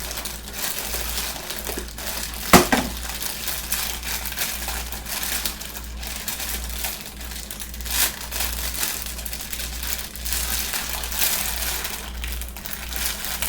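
Crinkling and crunching from crackers and their wrapper being handled, with a sharp knock about two and a half seconds in. A low electrical hum runs underneath.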